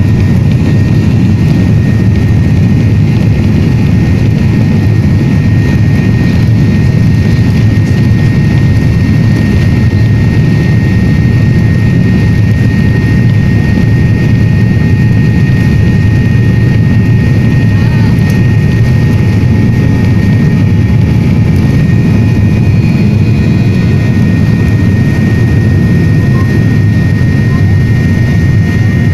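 Airliner cabin noise: the steady rumble of the jet engines and airflow, with a thin, even whine above it.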